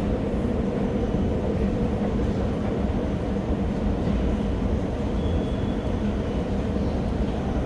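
Escalator running with a steady mechanical rumble and low hum, heard from a rider on a long, steep escalator rising from a deep underground station.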